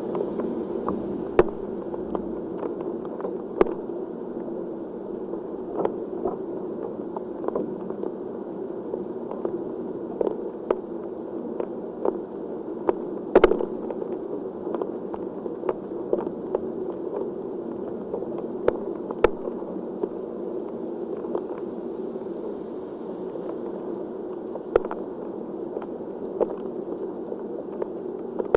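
Heavy rain falling steadily, with irregular sharp taps of drops striking a hard surface scattered throughout, one louder than the rest about halfway through.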